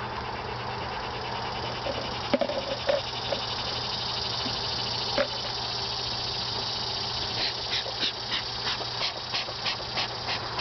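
Honeybees humming steadily around an open hive, with a couple of knocks from the hive parts. Past the middle, a run of quick hissing puffs follows, about two to three a second, from the bellows of a bee smoker.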